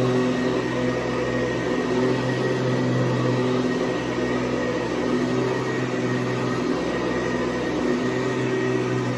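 Hoover Convertible Elite U4153 upright vacuum cleaner running steadily, its 4.3-amp motor and 11-blade plastic fan giving a constant hum with a high whine over a rush of air.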